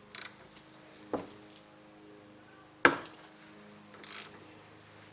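Socket wrench working a seized fitting loose on a cast-iron brake master cylinder: a few sharp metallic clicks and snaps, the loudest about three seconds in.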